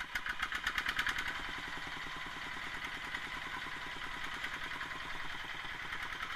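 Small diesel tractor engine running with a rapid, even knocking beat, louder and harsher for about the first second, then settling to a steady idle. It is a test run after new piston rings and valve stem seals, to see whether the engine still smokes.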